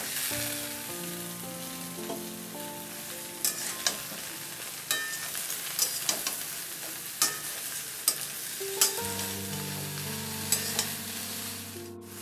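Chopped ridge gourd frying in hot mustard oil in a metal kadai: a steady sizzle as the pieces go in and are turned. A metal spatula clicks and scrapes against the pan now and then.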